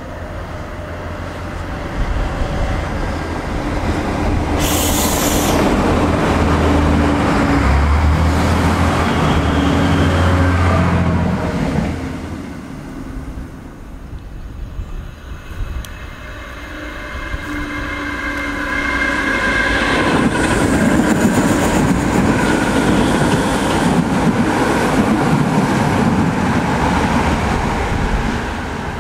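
Two trains pass in turn. The first runs by with a deep steady drone that fades away about twelve seconds in. Then a DART electric multiple unit approaches with a steady whine and rumbles past near the end.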